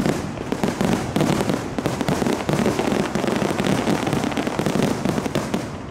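Dense barrage of fireworks: rapid overlapping bangs and crackling, fading away near the end.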